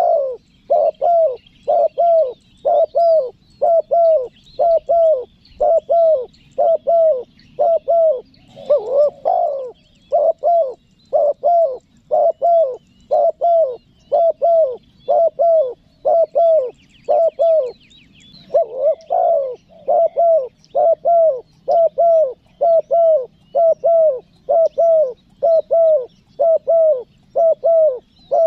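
Spotted dove cooing in a fast, even series of short coos, about one and a half a second, with one brief pause about two-thirds of the way in; this is the pressing calling coo used to lure wild doves. Small birds chirp faintly behind.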